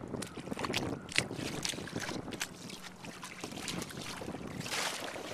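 Small irregular splashes and slaps of water against an inflatable kayak's hull as it moves through the harbour, with wind on the microphone and a burst of wind hiss near the end.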